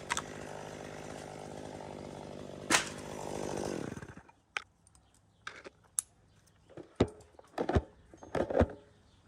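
Chainsaw idling steadily, then shutting off about four seconds in. A few short knocks and clacks follow.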